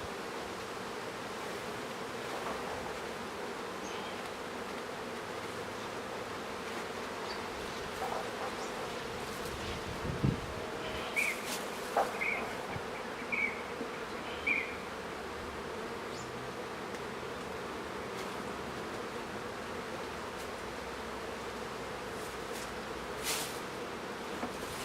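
A honeybee colony buzzing steadily in an open hive. About ten seconds in there is a single knock, followed by four short high chirps about a second apart.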